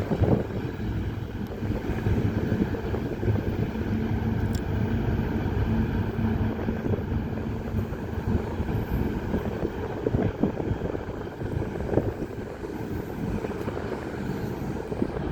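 Passing CSX Herzog work train: a steady low rumble of the train on the move, with a diesel locomotive's engine hum that fades about halfway through.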